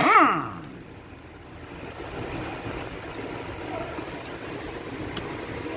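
A power tool spinning up and winding back down in one short burst, followed by a steady rumbling background noise.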